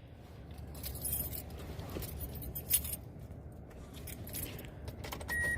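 Car keys jangling and clinking as they are handled, with one sharp click partway through. Near the end a car's warning chime gives its first high beep.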